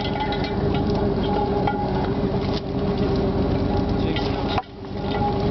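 A fishing boat's engine running steadily, with light clatter and clicks on board. The sound drops out abruptly near the end and comes back about half a second later.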